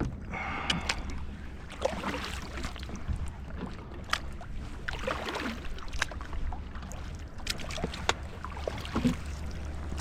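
Kayak being paddled on a river: paddle strokes swishing and dripping in the water, with scattered sharp clicks and a steady low rumble underneath.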